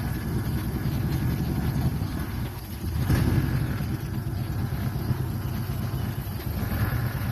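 Vehicle engine idling with a steady, low, rapidly pulsing exhaust note, swelling slightly about three seconds in.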